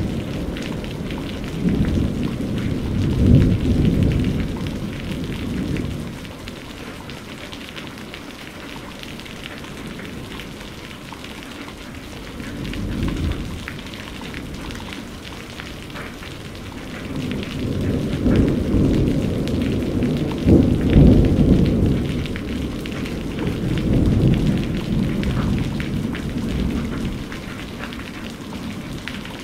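Steady rain patter with rolls of thunder: a long rumble in the first few seconds, a short one around the middle, and a longer, louder rumble in the second half that fades near the end.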